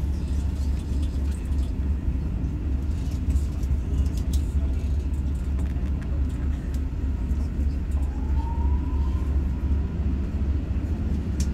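Steady low rumble of a moving passenger train, heard from inside the carriage. A faint, brief rising tone comes in about eight seconds in.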